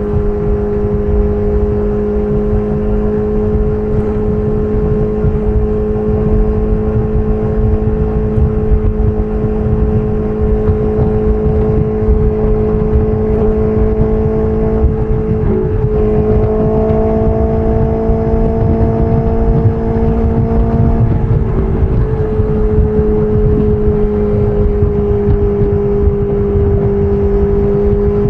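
BMW S1000RR inline-four engine through an SC Project titanium exhaust, running steadily under way with a rumble of wind and road noise. The engine note holds one pitch, with brief breaks about 15 and 21 seconds in, after which the pitch shifts slightly.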